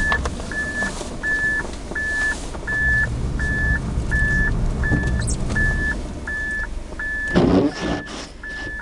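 Reverse-gear warning beeper of a Suzuki Alto kei car sounding short, even beeps at one pitch, about one every 0.7 seconds, while the car backs up to turn around, over the low rumble of its engine. A brief louder noise comes in near the end.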